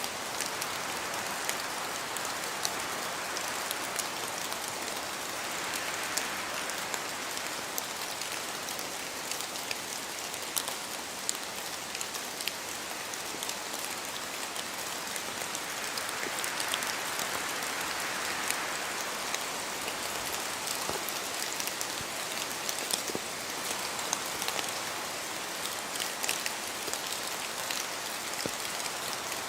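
Steady rain falling on a forest, with many separate drops ticking sharply out of the hiss. The sound swells a few times as wind gusts pass through the trees.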